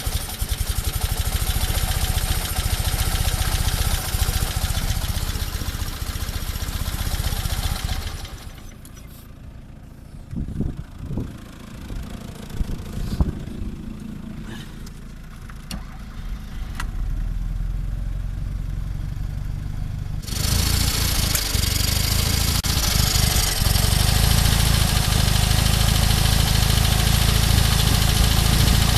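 Fiat 126p's small air-cooled two-cylinder engine running, then going quiet about eight seconds in, with only a few knocks and clicks. About twenty seconds in it starts again and runs steadily, its first runs after five years standing.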